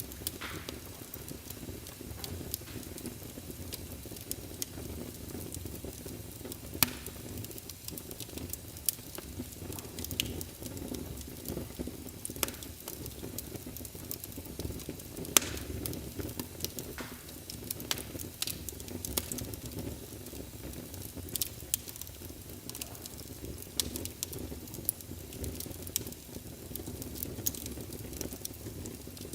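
Wood fire of burning logs in a fireplace crackling: a steady low rustle of flames with frequent irregular sharp pops, the loudest about halfway through.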